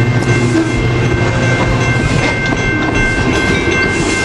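Coaster commuter train's passenger cars rolling past at close range: a steady, loud rolling noise of steel wheels on rail with light clicking and a few steady high tones. A low rumble fades in the first half-second as the locomotive draws away.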